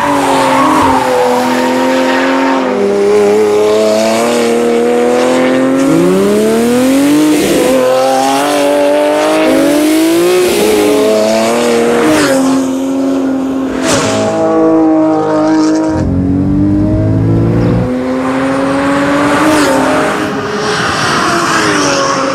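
Porsche 911 Carrera S (997 DFI) 3.8-litre flat-six breathing through an Akrapovič slip-on titanium race exhaust, accelerating hard. The engine note climbs in pitch and drops sharply at each gear change, several times over.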